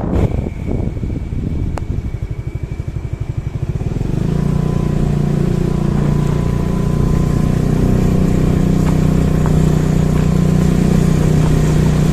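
Motorcycle engine idling with an even low pulse, then about four seconds in it picks up to a louder, steady running note that holds as the bike rides on.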